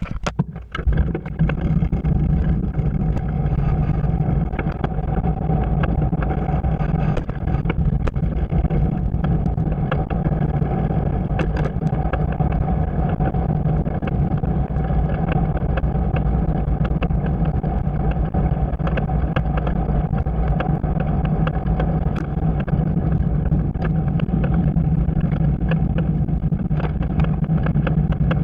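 Steady running noise of a bike in motion: a hum that holds one pitch throughout, with scattered small clicks.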